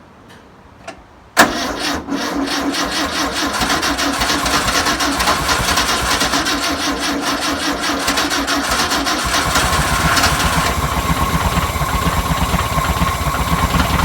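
1962 Volkswagen Type 2's air-cooled flat-four engine starting up about a second and a half in, on its first start after sitting for over 40 years, then running steadily.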